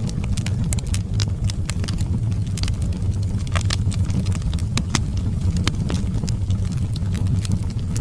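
Wood fire burning in a fireplace: a steady low rumble of flame with frequent sharp crackles and pops at irregular intervals.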